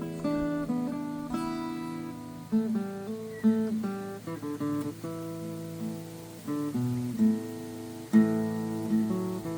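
Steel-string acoustic guitar played fingerstyle in an acoustic blues style: picked single-note lines over a ringing low bass note, with a chord struck about eight seconds in.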